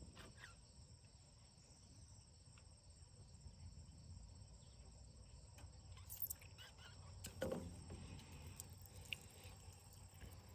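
Near silence: a faint low background hum, with a few light clicks and knocks, the clearest about six and seven and a half seconds in.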